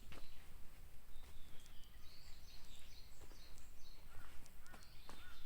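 Wild forest birds calling: short high chirps repeating through the middle, then a series of lower arching calls, several in quick succession, starting near the end.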